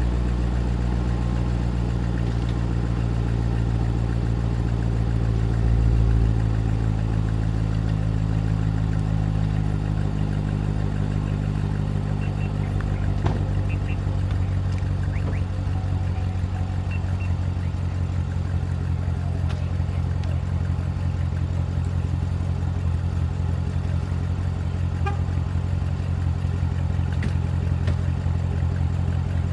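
Chevrolet Corvette C7's 6.2-litre V8 idling steadily after a cold start. Over the first ten seconds or so its pitch sinks slightly as the idle settles, then holds, with a few faint clicks later on.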